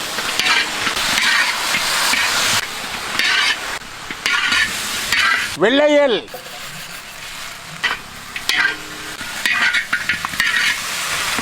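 Fried chicken being stirred in a hot pan of sizzling sauce, with the spatula scraping in repeated strokes.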